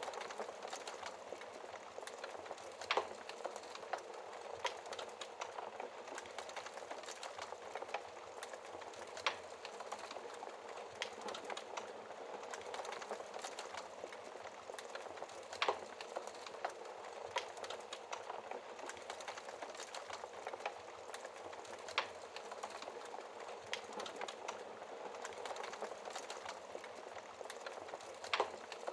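Wood fire burning in a fireplace: a steady soft hiss with frequent small crackles and a few louder pops every several seconds.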